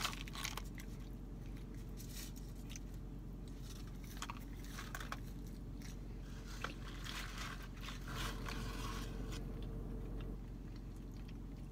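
A person chewing and biting McDonald's French fries close to the microphone, with a few scattered soft crunches and mouth clicks.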